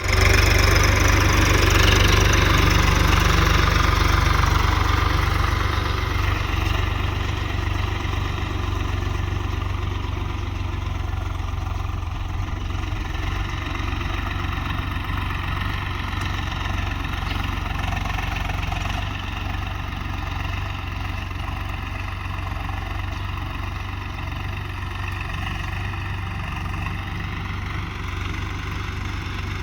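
Swaraj 744 tractor's diesel engine running steadily, louder over the first five seconds or so and then settling to an even, lower hum.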